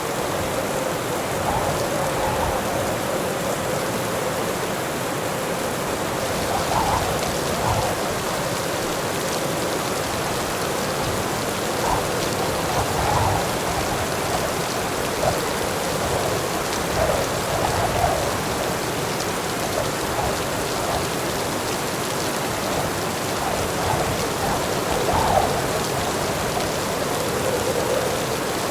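Heavy rain falling steadily: a dense, even hiss with small brief swells in level.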